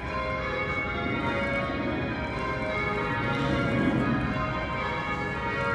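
Church bells ringing changes: several bells striking in turn, their tones overlapping and ringing on.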